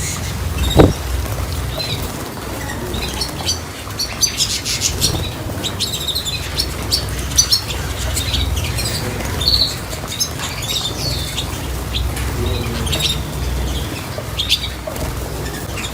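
Small cage birds chirping in quick, scattered calls, with wings fluttering, over a low rumble; a single knock about a second in.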